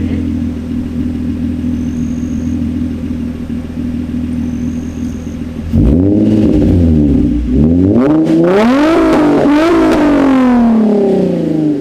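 Nissan 350Z's 3.5-litre V6 idling steadily through a Motordyne exhaust with resonated high-flow catalytic converters, then revved loudly from about six seconds in: a series of blips with the pitch climbing and dropping, before it falls back toward idle near the end.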